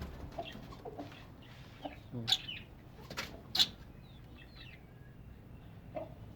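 Chickens clucking, with a few sharp wing flaps about two to three and a half seconds in and brief high chirps from smaller birds about four seconds in.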